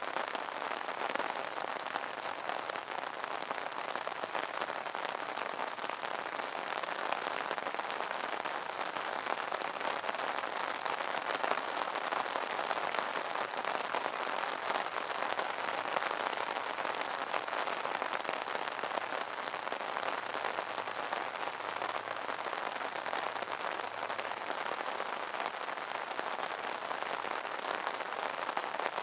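Steady rain drumming on an umbrella canopy: a dense, even patter of countless small drop impacts.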